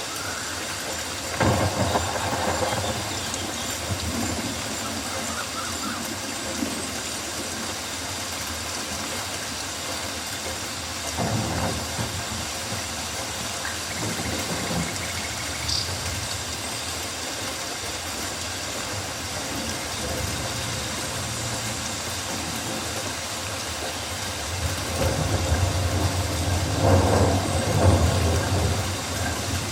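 Rainforest ambience: a steady hiss of rain, swelling a few times with a louder low rumble, the longest swell near the end.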